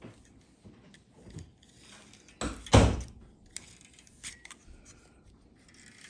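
Small clicks and rattles from handling the plastic instrument cluster and its shift indicator parts, with a louder brief clatter about two and a half seconds in.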